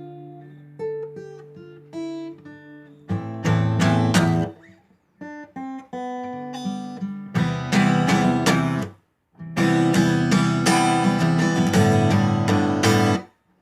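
Acoustic guitar instrumental: single picked notes at first, then strummed chords from about three seconds in, with short breaks twice and again near the end.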